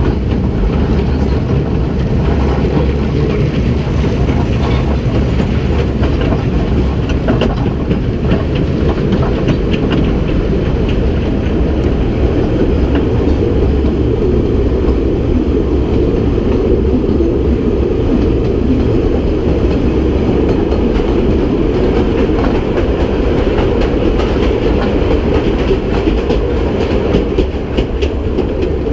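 Kurobe Gorge Railway narrow-gauge trolley train running along the track, a loud, steady rumble of wheels on rails heard from an open-sided carriage.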